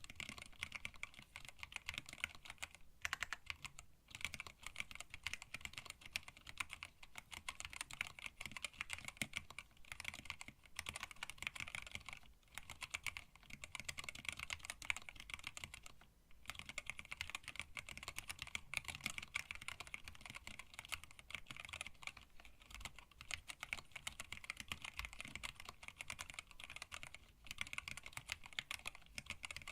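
Continuous typing on a hand-wired split mechanical keyboard with Tealios linear switches, blank PBT keycaps and an acrylic case: a dense, steady stream of key clacks with a few brief pauses.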